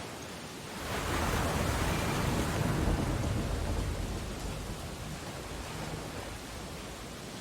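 Ocean surf: a wave breaks about a second in, surges for a few seconds and washes out again over the steady hiss of the sea.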